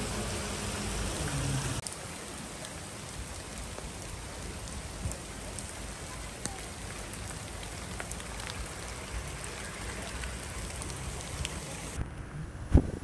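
Steady rain falling, with scattered drops ticking. A low hum is under it for the first couple of seconds, and there is one sharp knock near the end.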